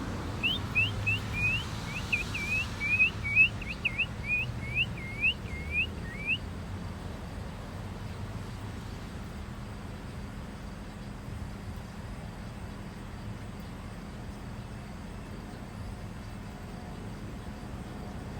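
A songbird singing a quick series of about fourteen short, slurred whistled notes, repeated evenly for about six seconds and then stopping, over a steady low background hum.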